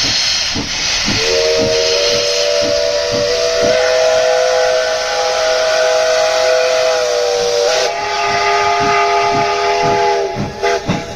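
Steam locomotive whistle blowing one long chord of several tones for about nine seconds over loud steam hiss, with low pulses about twice a second underneath.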